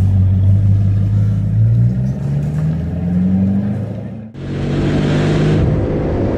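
Bugatti Chiron Pur Sport's quad-turbo W16 engine pulling hard under acceleration, its note rising steadily for a couple of seconds. Just after four seconds in, the sound breaks off sharply and comes back with the engine running along with a brief rushing hiss.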